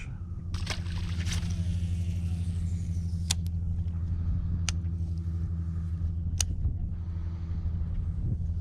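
A boat motor running with a steady low hum, with three sharp clicks partway through.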